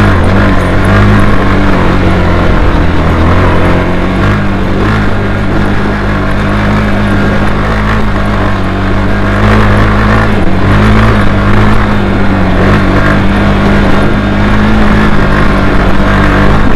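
Honda CBR150R's single-cylinder engine running at fairly steady revs while the motorcycle is ridden.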